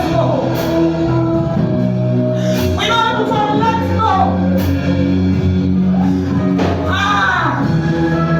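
Church worship music: a voice singing in drawn-out, sliding phrases over sustained held chords.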